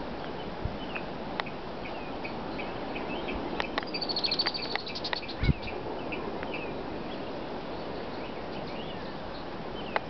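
Marsh birds calling, which the uploader takes for a blackbird: short call notes repeated again and again, and a rapid trill lasting about a second and a half, beginning about four seconds in. A single low thump follows just after the trill, over a steady background hiss.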